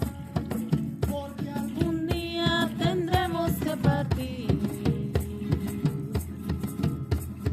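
A ceremonial folk song: a voice sings over a steady hand-drum beat, ending on one long held note about halfway through.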